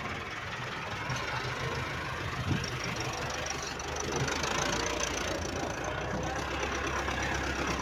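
Engine running steadily, a little louder from about halfway, with one short knock about a third of the way in.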